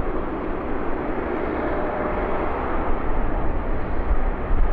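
Jet airliner engine noise: a steady, dense roar with deep rumble, growing a little louder toward the end.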